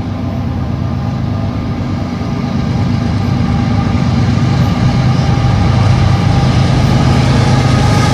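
Diesel freight locomotives approaching on the main line, a steady heavy engine hum that grows gradually louder.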